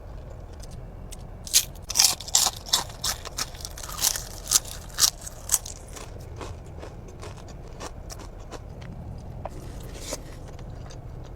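Close-up crunchy biting and chewing of food, a quick run of crisp crunches in the first half, then quieter chewing with a couple of small crunches near the end.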